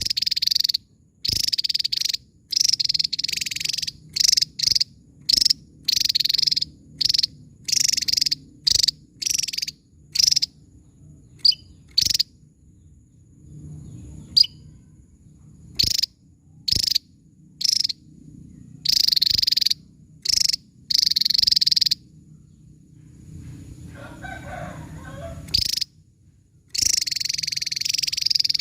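Javan tesia singing: a string of short, very high, sharp bursts of song, each under a second, in quick runs with brief gaps and a quieter spell in the middle.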